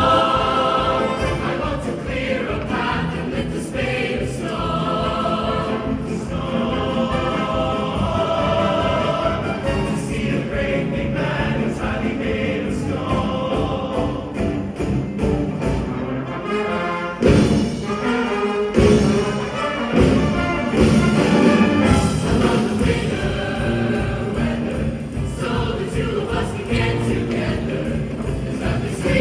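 School choir singing a Christmas song with instrumental accompaniment, with a few loud accented beats a little past halfway.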